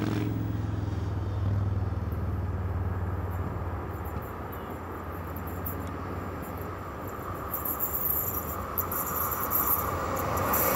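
Freight train of tank wagons hauled by an old E94 electric locomotive approaching on the line, its running noise growing louder towards the end, with a low rumble early on.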